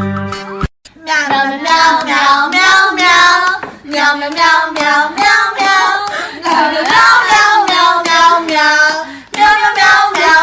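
A high-pitched voice singing in short, wavering phrases, starting about a second in after a brief gap.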